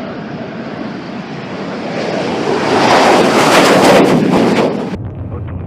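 Jet aircraft roar swelling to a loud peak as it closes in, then cut off abruptly about five seconds in.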